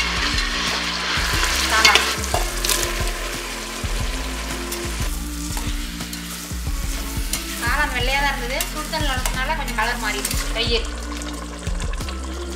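Onion, tomato and mushroom masala sizzling in hot oil in a large pot while it is stirred and mixed.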